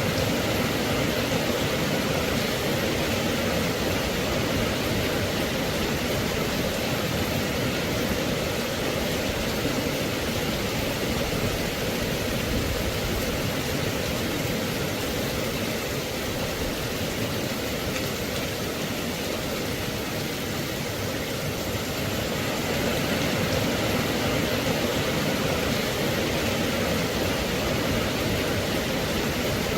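Steady rain: an even, unbroken hiss with no single drops, thunder or other events standing out.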